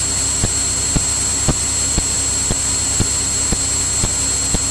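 Steady drone of a Cirrus single-engine piston airplane in flight, heard from inside the cabin, with a thin high whine over it and a sharp regular click about twice a second.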